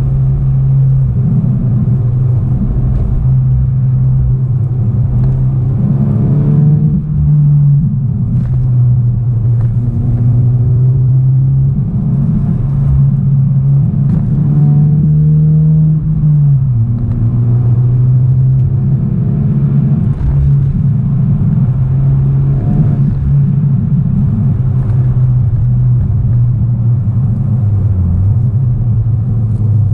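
Honda Civic Type R FK8's turbocharged 2.0-litre four-cylinder with a full 3-inch custom exhaust, heard from inside the cabin as a steady low drone while driving. The engine note climbs and then falls back twice, about seven and sixteen seconds in.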